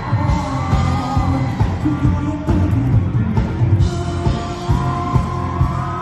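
Live pop-rock band performance: a steady drum beat under full band accompaniment, with singing over it.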